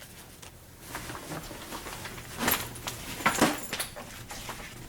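Objects being handled and shifted around on a cluttered workbench, with a few sharp knocks and clatters, the loudest about two and a half and three and a half seconds in.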